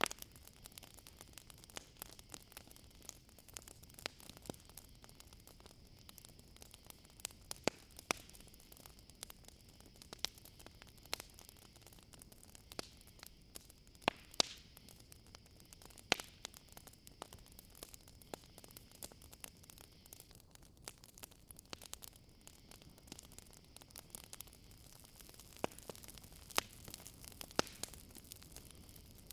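Wood campfire crackling, with sharp pops scattered through, over a steady high trill of crickets that dips for a few seconds past the middle.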